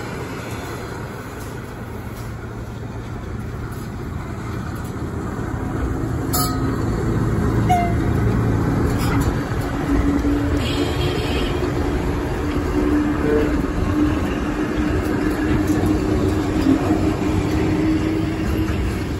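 A ВЛ11 electric freight locomotive approaching and passing close by with a freight train. The rumble grows louder over the first half, with a steady hum over it, and then open freight wagons roll past.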